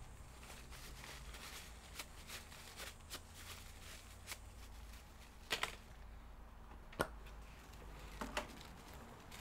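Scattered light clicks and taps from laptop parts being handled on a workbench, with sharper clicks about five and a half and seven seconds in.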